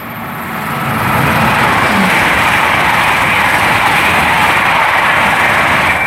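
Great Western Railway passenger train passing through the station at speed without stopping: a loud rushing noise of wheels on rail and moving air that builds over the first second and a half and then holds steady.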